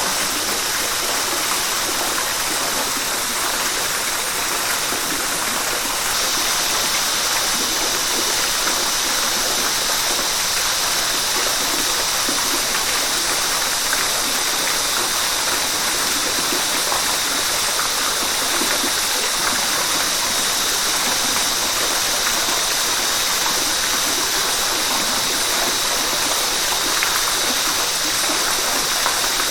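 River water rushing steadily over rocks, an even hiss that gets a little louder and brighter about six seconds in.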